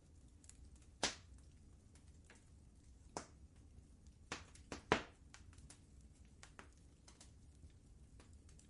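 Wood fire crackling in a fireplace: scattered sharp pops and fainter ticks over a soft low rumble. There is a loud pop about a second in, another near three seconds, and a quick cluster of three pops between four and five seconds, the last of them the loudest.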